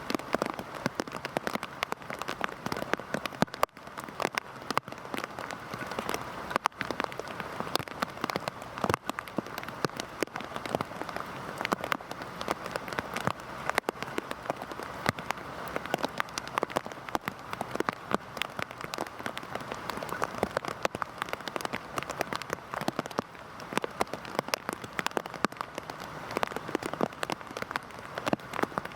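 Heavy rain falling, a steady hiss dense with sharp ticks of single drops striking a surface.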